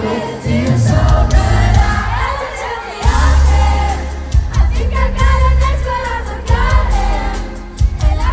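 Live pop concert music heard from within the audience: loud amplified music with a heavy bass and singing, the crowd's voices singing along.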